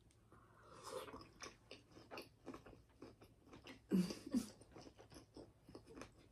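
A person chewing and biting seafood boil close to the microphone, mukbang-style: a quick run of small mouth clicks and smacks, several a second, loudest about four seconds in.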